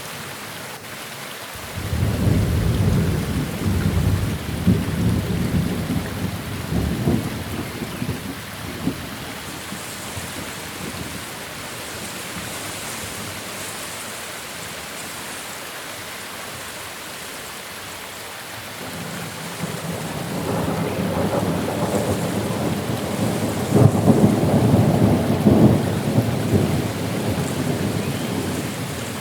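Steady rain with two rolls of thunder. The first breaks in suddenly about two seconds in and rumbles away over several seconds. The second builds slowly from about two-thirds of the way through and is loudest near the end.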